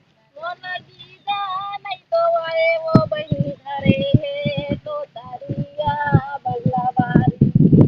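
Singing of a Chhattisgarhi Dadariya folk song, the work song sung while transplanting paddy. It goes in phrases of long held notes with wavering pitch and short breaks between them, with irregular low thumps under the singing.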